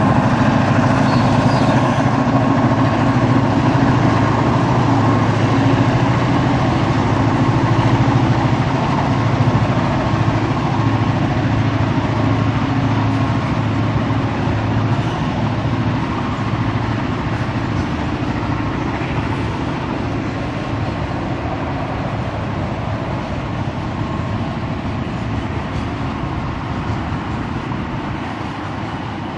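Loaded grain wagons rolling steadily across a brick viaduct: a continuous rumble of wheels on rail that slowly grows quieter.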